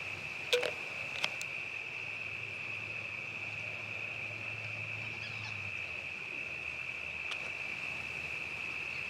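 Insects trilling in one steady, unbroken high-pitched drone, with a couple of faint clicks about half a second and a second in.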